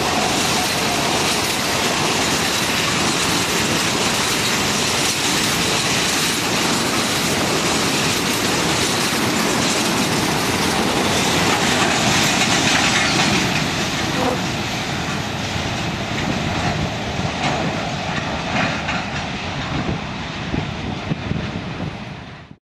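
Coal train's hopper wagons rolling past close by: steady noise of steel wheels on the rails. It eases off after about thirteen seconds as the end of the train passes and draws away.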